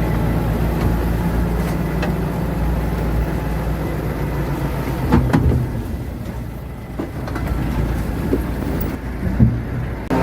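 Diesel engine of heavy earthmoving equipment running steadily, with a couple of clunks about halfway through and another near the end.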